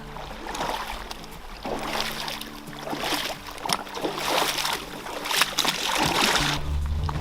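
Feet wading through a shallow river, splashing and sloshing in uneven surges about once a second, over steady background music.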